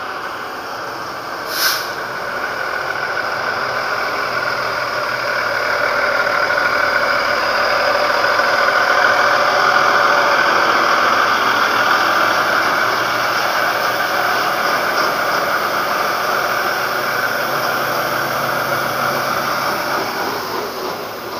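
Truck engine running at low speed as the truck manoeuvres in, growing louder toward the middle and easing off near the end. A brief sharp sound comes about two seconds in.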